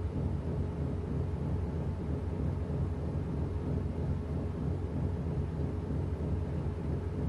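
Washing machine running mid-cycle: a steady low rumble with a faint, even hum.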